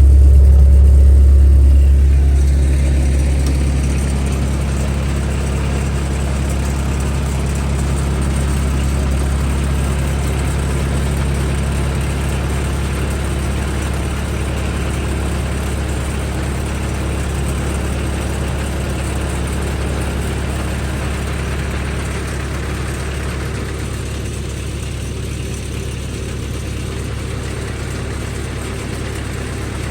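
Diesel engine idling steadily while warming up in the cold, louder for the first couple of seconds and then settling.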